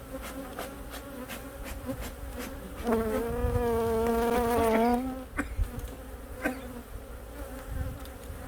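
Honey bees buzzing around an opened hive, stirred up and defensive at the intrusion. About three seconds in, one bee hums loudly close by for about two seconds, then moves off. Light clicks throughout.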